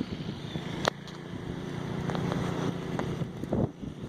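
Small gasoline engine of a snowblower running steadily, with a sharp click about a second in.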